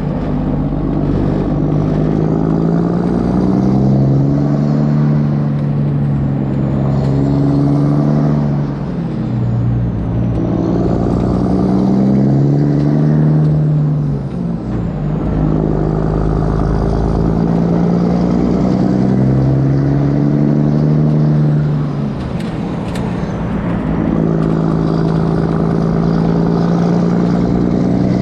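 Kenworth W900's straight-piped diesel engine pulling hard through the gears, its pitch climbing in each gear and dropping at three upshifts, about 9, 15 and 22 seconds in.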